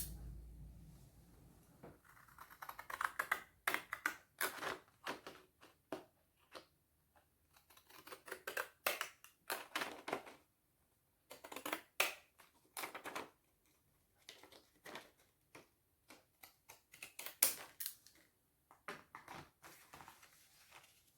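Paper and craft materials handled on a tabletop: irregular taps, clicks and short rustles, with brief pauses in between.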